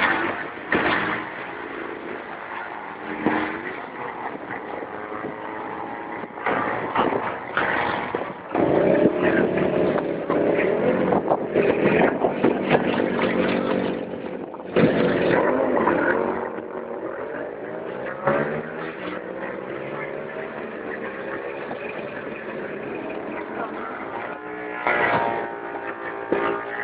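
Drag-racing motorcycle engines revving in short blips, then a long loud run with the engine pitch climbing and falling as a bike accelerates down the strip, followed by more short revs.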